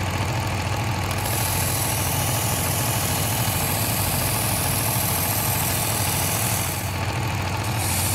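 Work Sharp Ken Onion Edition belt knife sharpener running with a steady motor hum, and a kitchen knife blade drawn across the moving abrasive belt with a hissing grind. The grind stops briefly near the end, then starts again.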